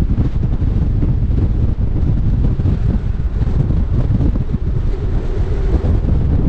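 Strong gusting wind buffeting the microphone: a loud, low, fluttering rumble that keeps rising and falling.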